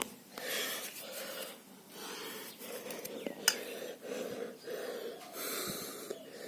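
A man panting hard, about one heavy breath a second, out of breath from filling a high-pressure air tank. A single sharp click sounds about halfway through.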